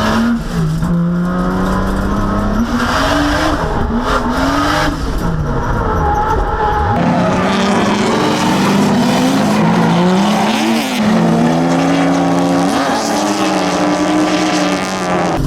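Drift car's engine revving up and dropping back again and again during a drift run, with tires squealing as the car slides.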